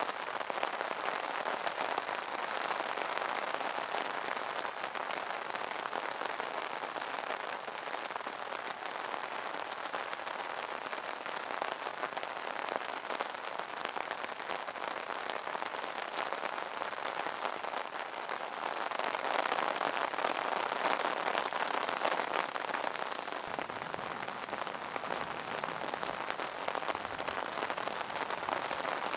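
Rain falling on an umbrella: a dense, even hiss of many small drop hits, growing louder for a few seconds about two-thirds of the way through.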